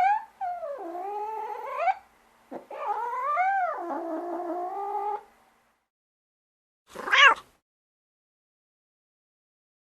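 Domestic cat yowling: two long drawn-out yowls whose pitch dips and rises, then a short sharp cry about seven seconds in.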